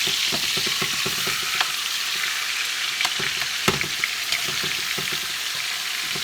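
Bone-in chicken breasts frying in hot bacon grease: a steady sizzle with scattered crackles and pops, and one louder click about three and a half seconds in.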